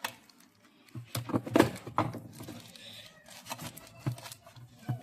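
Plastic pouch and tape crackling and rustling as they are wrapped over the joined wire connections, with irregular sharp clicks.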